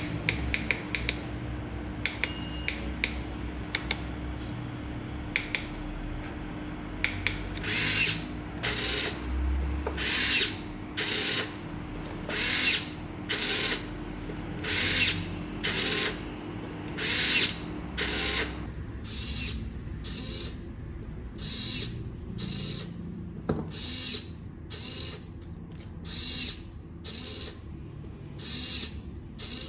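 Homemade Arduino wire-cutting machine running, with a stepper-motor wire feeder and servo-driven cutting pliers: scattered sharp clicks, then a regular run of short mechanical whirring bursts about once a second. A faint steady hum under the first part stops about two-thirds of the way through.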